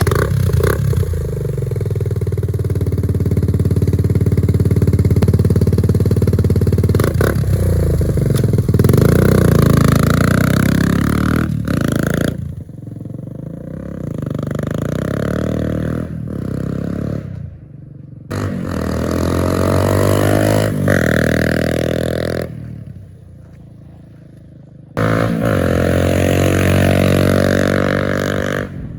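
Suzuki DR200S single-cylinder four-stroke engine running through a new exhaust pipe, revved up repeatedly with the pitch climbing and dropping back toward idle between revs. A quieter idle stretch comes about three-quarters through before a final rev.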